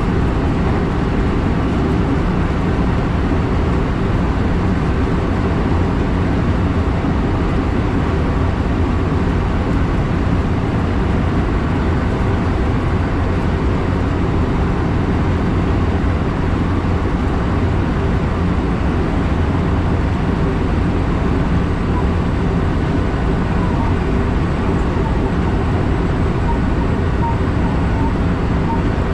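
Steady running noise of an electric train heard from inside the front passenger car: a continuous low rumble of wheels on rail, unchanged throughout.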